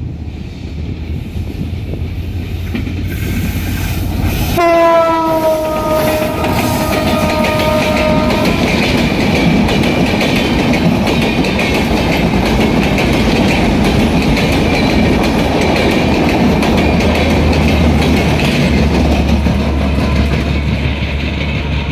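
ALCO diesel locomotive horn sounding one long multi-tone blast about four seconds in, lasting about four seconds, over the train's loud rumble and wheels clattering on the rails. The rumble grows louder over the first few seconds, then holds steady.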